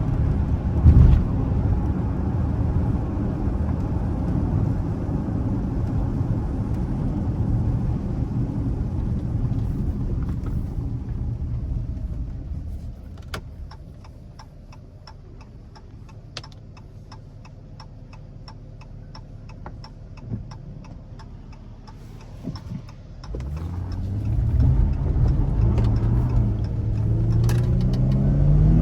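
V6 Dodge Charger driving, with steady engine and road noise. It then drops to a quiet idle-like stretch with an even, rapid ticking for about ten seconds. About three-quarters of the way through, the engine revs up with rising pitch as the car accelerates.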